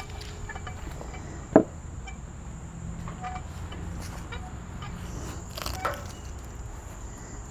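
One sharp knock about one and a half seconds in and a softer knock near six seconds, over a steady thin high-pitched drone.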